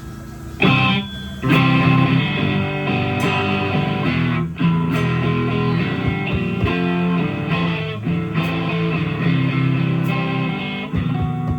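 Live band playing a song, led by guitar chords, starting about half a second in.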